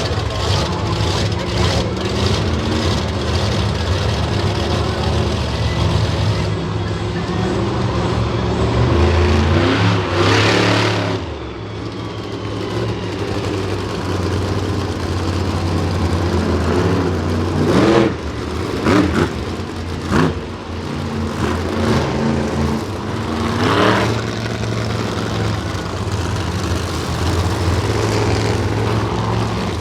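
Monster truck engines running low and steady, with short revs several times.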